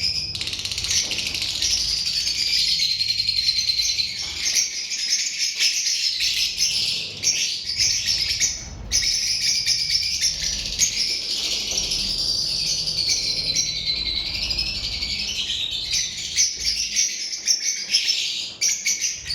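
Lovebirds chattering in a dense, continuous stream of high-pitched chirps, briefly breaking off about nine seconds in.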